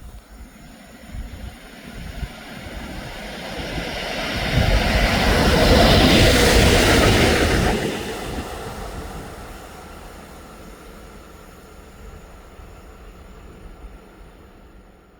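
A train passing along the line: rumble and wheel-on-rail noise build up, peak loudly in the middle, and fade away as it moves off.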